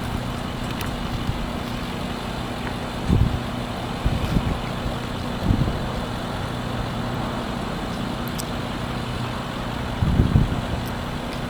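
Steady low motor hum, like an idling engine, with a few short, soft low thumps scattered through it.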